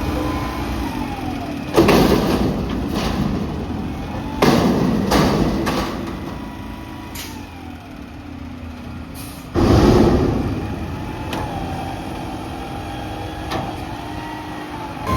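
Mack MRU McNeilus front-loader garbage truck running its hydraulics, the engine and pump whine rising and falling, with three loud metal bangs about 2, 4.5 and 9.5 seconds in.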